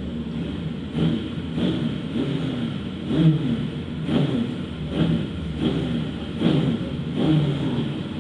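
Engine of a vehicle on a race circuit, its revs rising and falling over and over, about once a second.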